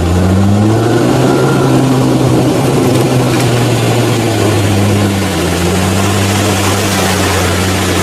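Off-road 4x4's engine running hard at fairly steady revs, dipping slightly about five seconds in, with a loud noisy hiss over it.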